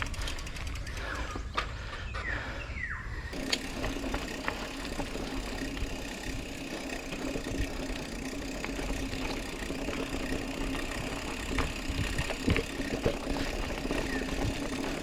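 Mountain bike rolling over a rough forest trail: wind buffeting the microphone and the bike's frame and parts rattling and clicking over bumps. About three seconds in, a steady low hum starts and continues.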